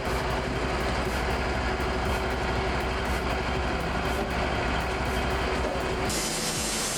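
Sawmill machinery running with a steady low drone. About six seconds in the sound changes abruptly to a brighter hiss.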